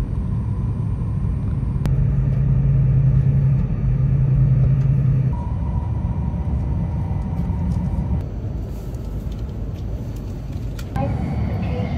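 Train running, heard from inside the carriage: a steady low rumble, with a stronger low hum for a few seconds early in the clip and a faint high tone after it. The rumble eases off slightly for a few seconds near the end.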